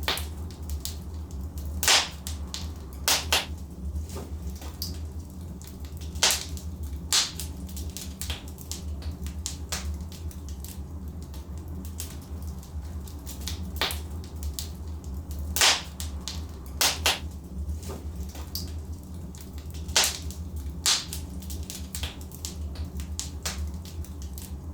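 Burning logs in a fireplace: a steady low rumble of the fire under continual crackling, with sharp louder pops every few seconds.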